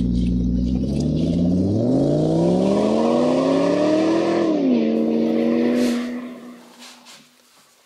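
A motor or engine running, revving up in pitch, dropping back, then dying away about six seconds in.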